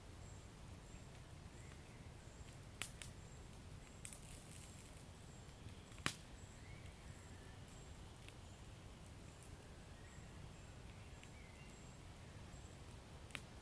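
Wood fire crackling softly: a low steady rumble of the flames with scattered sharp pops and snaps, the loudest about six seconds in and another just before the end.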